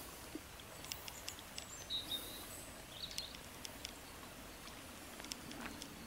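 Faint outdoor ambience with two short, high bird chirps about two and three seconds in, and scattered light ticks.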